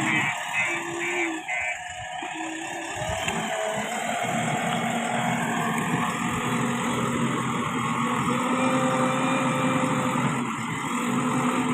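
A JCB 3DX backhoe loader's diesel engine running steadily. A string of rapid high beeps, about three a second, sounds over it for the first couple of seconds.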